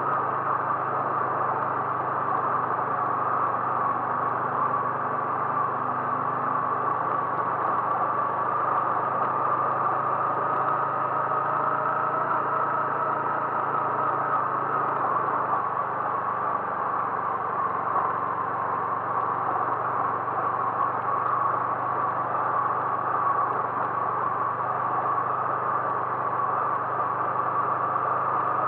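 A vehicle's engine running steadily, with an even low hum and a constant noise.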